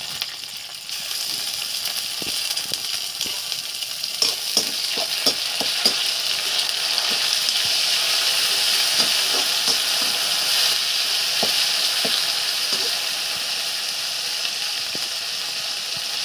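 Onions, bay leaves and ginger-garlic paste sizzling in hot oil in a metal kadhai, with a spoon scraping and stirring against the pan. The sizzle grows louder about a second in.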